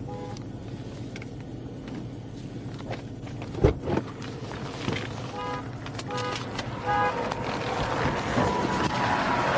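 Short electronic beeps, a few in quick succession, over a steady vehicle hum, with a couple of dull knocks about three and a half seconds in.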